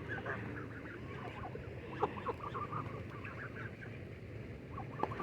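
Ducks and geese making soft, scattered squeaky calls while being hand-fed bread, with a single sharp click about two seconds in.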